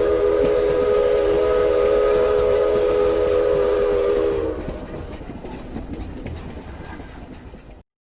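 Train sound effect: a whistle sounds one steady chord of several tones for about four and a half seconds over the rumble and clatter of a moving train. The whistle stops, and the rumble fades away and cuts off just before the end.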